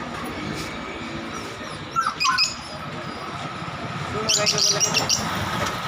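Budgerigars chirping in short, high bursts: a couple of chirps about two seconds in, then a quicker run of chirps lasting about a second near the end.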